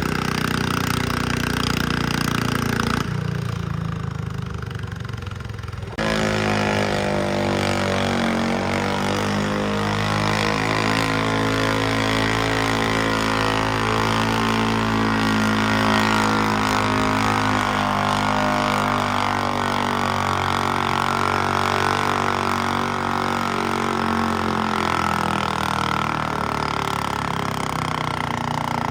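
Pulling garden tractor's engine running hard under load. After a quieter stretch it comes in loud about six seconds in; its pitch sags, then climbs and holds before easing off near the end.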